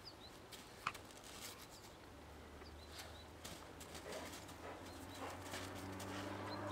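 Faint outdoor ambience: a few short, high bird chirps over a low steady hum, with one sharp click about a second in.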